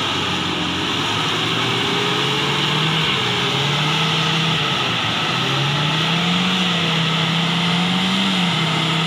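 Toyota Kijang's engine revving hard under load as the MPV crawls through deep red mud, held high for several seconds with the pitch sagging about halfway and climbing again, then beginning to drop near the end, with a steady hiss over it.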